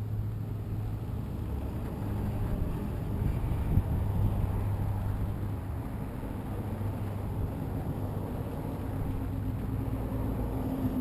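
2007 Suzuki SV650's 645 cc 90-degree V-twin running through a custom exhaust, a steady low note.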